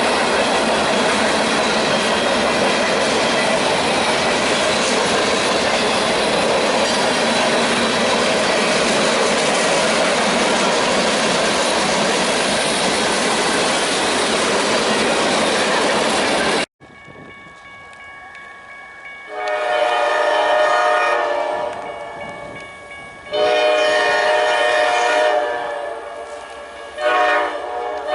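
Freight train rolling past with steady wheel-and-rail noise and clickety-clack, which cuts off abruptly. Then a locomotive air horn sounds two long blasts, and a third begins near the end.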